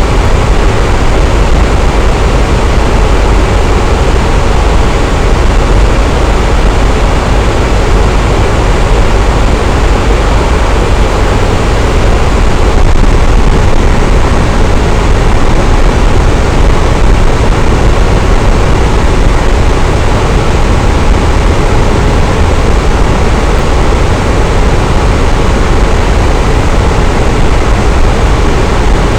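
Electric fan running, a steady whooshing rush of air with a low hum, unchanging throughout.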